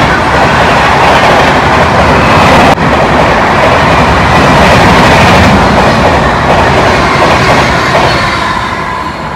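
A passenger train running past the platform at speed: a loud, continuous rush and rumble of the coaches' wheels on the rails, dying away near the end as the rear power car goes by.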